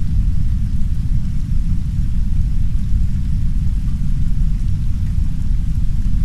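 Heavy brown noise: a steady, deep rumble with only a faint hiss of soft rain above it.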